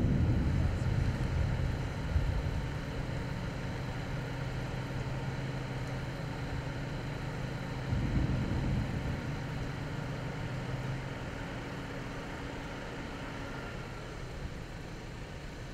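A vehicle engine idling with a steady hum under low rumbling noise. A louder low rumble at the start fades over the first two seconds, and another swells briefly about eight seconds in.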